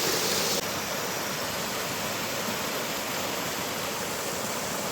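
Rushing water in a canyon stream, a steady rush that drops a little in level and brightness about half a second in.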